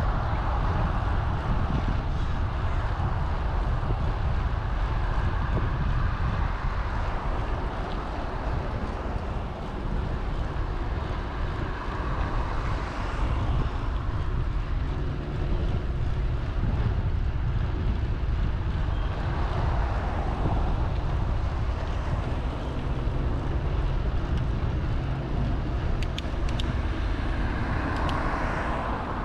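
Steady low rumble of wind on the microphone and road noise while riding a bicycle, with swells of louder noise now and then and a few faint clicks near the end.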